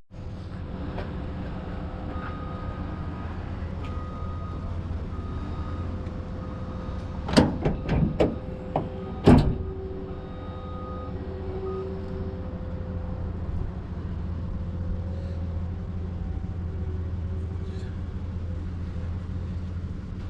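Truck engine running steadily, with a cluster of sharp knocks and rattles about seven to nine seconds in, the last one the loudest.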